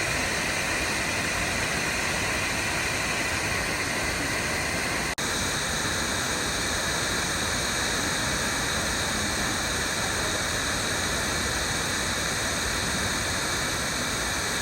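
Steady roar of a large waterfall, a dense, even rush of falling water, broken for an instant about five seconds in.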